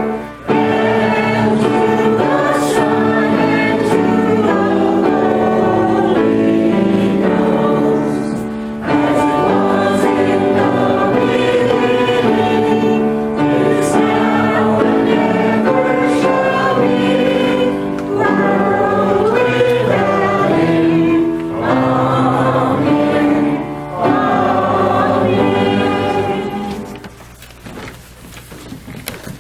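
Church choir singing a hymn or sung response in several phrases with short breaks between them. The singing fades out about three seconds before the end.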